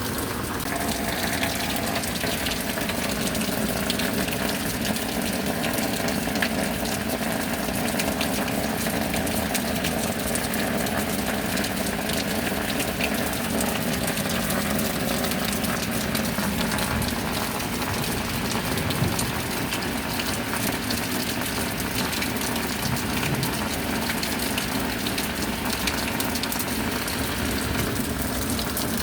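Steady, even rain with water gushing and pouring.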